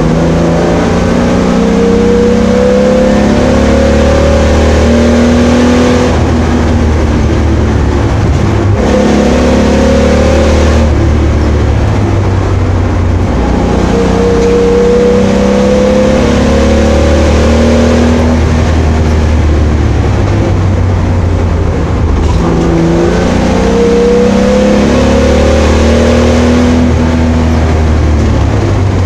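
Opel Commodore A's straight-six engine heard on board, pulling hard around a race track. Its note climbs in pitch and falls back several times as it shifts and lifts for corners.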